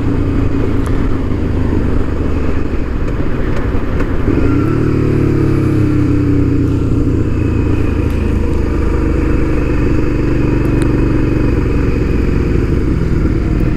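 Motorcycle engine running at low revs, then picking up revs about four and a half seconds in and running steadily.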